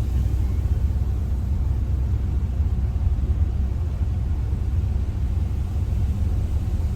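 Steady low rumble of a vehicle on the move, with a fluttering low-end drone and faint hiss above.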